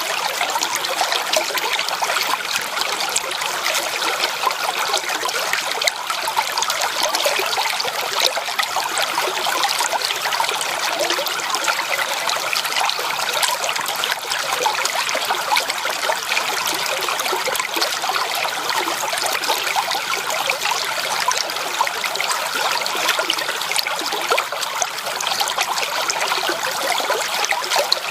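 A stream's running water: a steady trickling rush, mostly high and hissy, with little low rumble.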